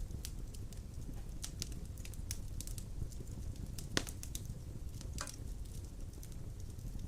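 Wood fire of large logs burning in a stone fireplace: a steady low rumble with scattered crackles and sharp pops, the loudest pop about four seconds in.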